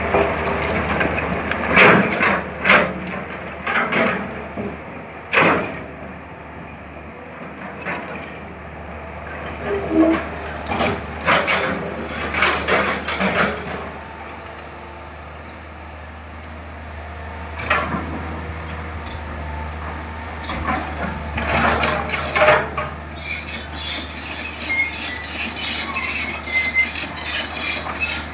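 Hitachi 200 excavator working: its diesel engine runs steadily under repeated sharp metallic clanks and scrapes, about ten loud knocks spread through, with a busier rattling stretch near the end.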